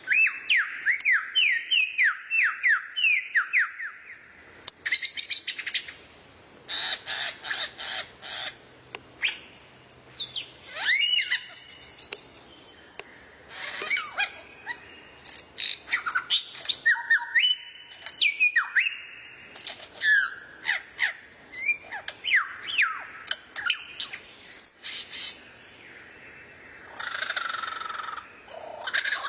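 Recorded songbird song with varied phrases: a fast run of downward-sliding chirps, then dry rattles, sharp whistles and a harsh buzzy call near the end.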